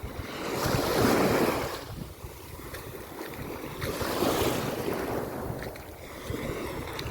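Sea waves washing in, two surges about three seconds apart, with wind buffeting the microphone.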